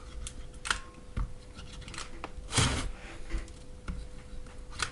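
Light clicks and taps of hands working a hot glue gun on a battery pack, with one short, louder rustle about two and a half seconds in. A faint steady tone runs underneath.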